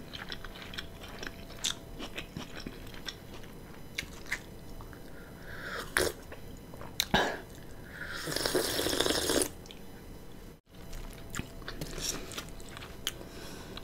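Close-miked eating sounds: small wet chewing clicks scattered throughout. About eight seconds in comes a slurp from a mug of hot coffee, lasting about a second and a half.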